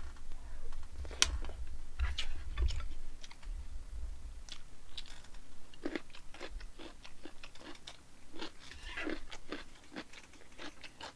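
Close-miked chewing and wet mouth sounds of a person eating a mouthful of mixed-grain rice mixed with bean sprouts and braised-chicken stew broth, with scattered sharp clicks.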